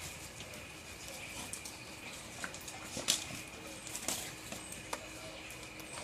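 Dogs playing around wet kennels: a few scattered light clicks and knocks over a faint, steady wash of rain.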